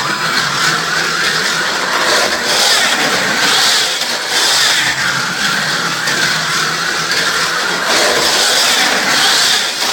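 1/43-scale slot cars running on a plastic Carrera Go track: a continuous whine of small electric motors with guide and tyre rattle, starting suddenly and swelling and fading about once a second.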